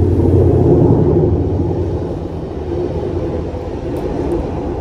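Train crossing the railway bridge overhead: a loud, steady rumble, loudest in the first second and easing slightly after.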